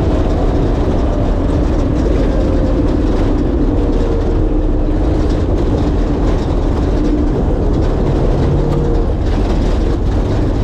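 1967 Ford Bronco's 363 stroker V8 running steadily while driving, a loud low rumble whose pitch wavers slightly.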